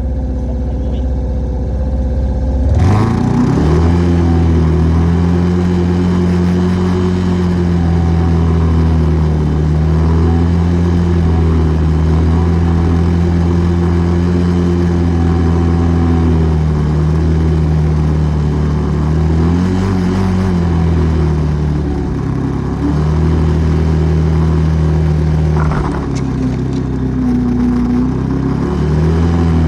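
ATV engine idling, then revving up about three seconds in and running steadily under throttle, with two brief dips in engine speed in the second half as the throttle eases and opens again.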